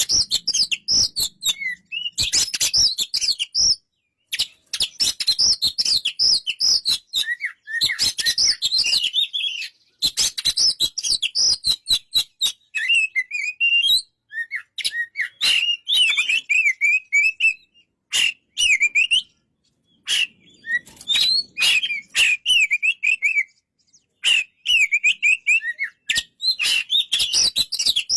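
Oriental magpie-robin singing: loud, varied warbling phrases in bouts broken by short pauses, with many sharp clicking notes.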